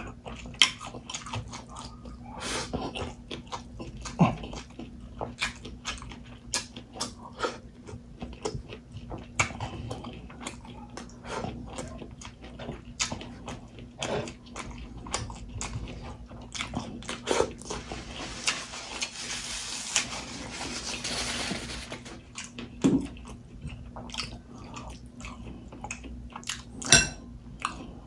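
Close-miked chewing of rice and pork: irregular wet smacks and clicks of the mouth, with a few louder ones, and a few seconds of steadier hiss a little past the middle.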